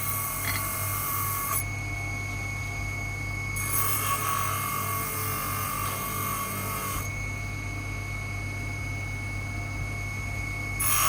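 A small power tool running with a steady high whine, pressed against the workpiece in three spells of grinding or sanding lasting a second or more each.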